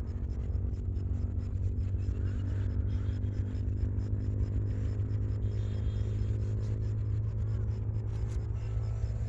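An engine running steadily: a low, even drone that holds one pitch throughout.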